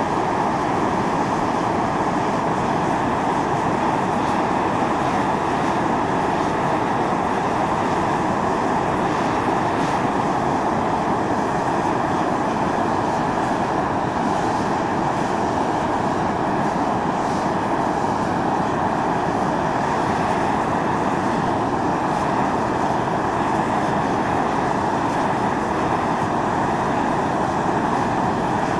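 Volcanic fumarole venting steam: a loud, steady rushing hiss that does not change.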